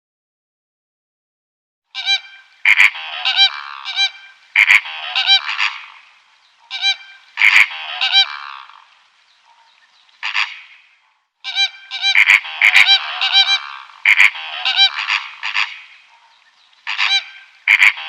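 Loud, repeated honking calls from a bird, starting about two seconds in and coming in bursts separated by short pauses.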